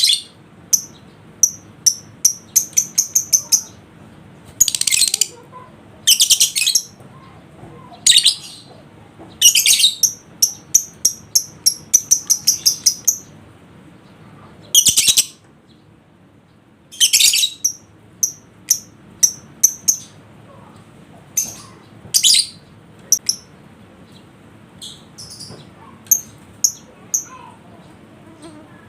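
Lovebird calling: sharp high chirps, some in quick runs of about five a second, broken up by harsh rasping screeches each under a second long.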